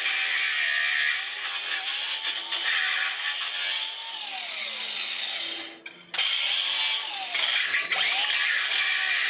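Steady rasping scrape of a hand tool worked over concrete, breaking off briefly about six seconds in and then starting again.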